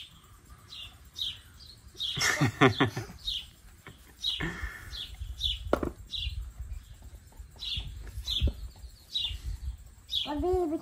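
A small bird chirping over and over, short high falling chirps about two a second, over a low rumble and a few knocks.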